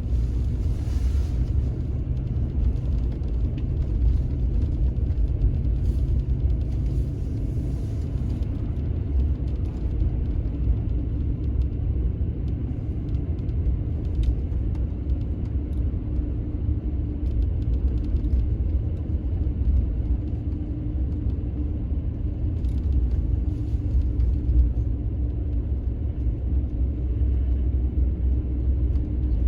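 Steady low rumble that does not let up, with a faint steady hum coming in about halfway through.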